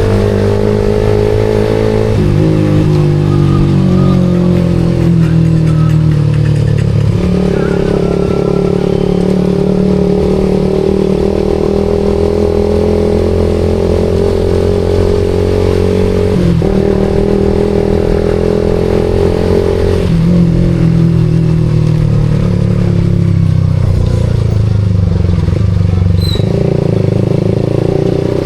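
Suzuki GSX-R150's single-cylinder engine running through a SARP aftermarket exhaust while riding: the engine note eases down and then steps back up several times as the revs change with throttle and gears.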